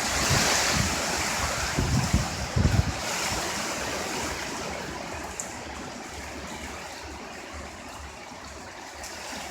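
A strong gust of tropical-storm wind rushing past and slowly dying away, buffeting the microphone with low thumps in the first few seconds.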